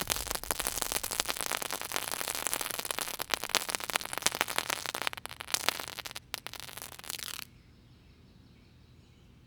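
Dense, rapid crackling of fireworks, many small irregular pops that thin out and then cut off suddenly about seven seconds in, leaving only faint outdoor background.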